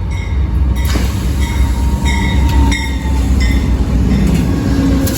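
Amtrak Coast Starlight passenger train rolling into the station close by: a heavy low rumble of the passing cars, a sharp click about a second in, and several short high-pitched metallic squeals.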